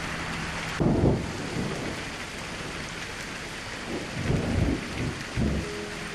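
Steady rain falling, with thunder rumbling: a loud low rumble about a second in, and a series of rumbles near the end.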